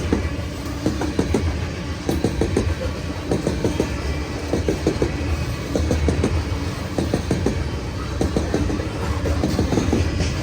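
A train rolling past, with a steady low rumble and repeated clacking of its wheels over the rail joints.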